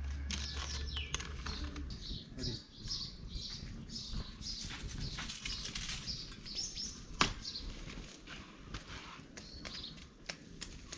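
Small birds chirping repeatedly, with a few faint clicks and one sharp crack about seven seconds in.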